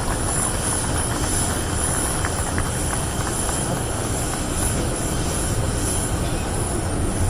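Steady, fairly loud engine noise of an aircraft, heavy in the low end, holding evenly without clear rises or falls.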